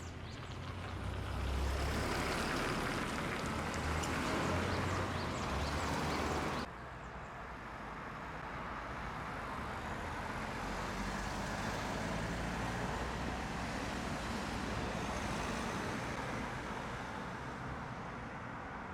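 Motor vehicle noise: a low engine rumble with a steady rushing haze. It drops off suddenly about six and a half seconds in, then carries on somewhat quieter.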